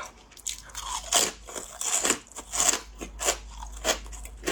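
Someone chewing hard, crisp fried rice-crust crackers (Sichuan peppercorn guoba) close to the microphone: a string of sharp crunches, about three a second.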